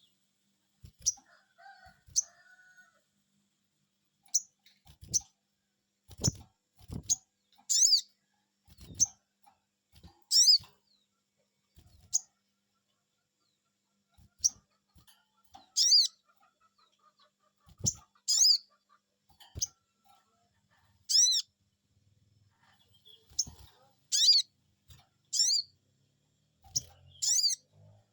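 Sogon bird calling 'cuiit cuiit': short, high chirps that each drop sharply in pitch, given singly and in quick pairs every second or so. It is a lure call meant to get other sogon birds to answer. A few low thuds come with some of the calls.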